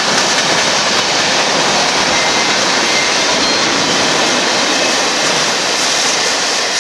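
Freight cars of a passing manifest train rolling by close to the track, with a loud, steady noise of steel wheels on the rails.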